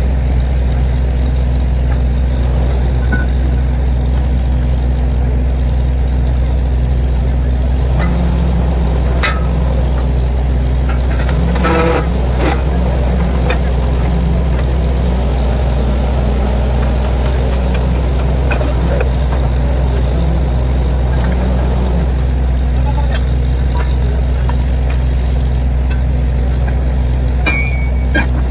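Borewell drilling rig's diesel engine running steadily with a deep, even hum, and scattered metallic knocks and clinks from the drilling gear, most of them in the middle part.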